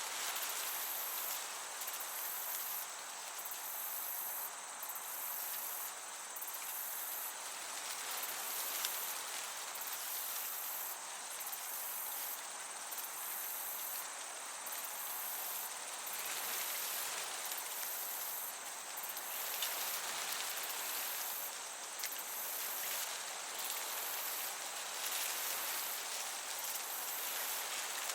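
Crickets chirping, a high pulsing trill that comes in trains with short gaps, over a steady high insect tone, with the soft rush of a gentle breeze beneath.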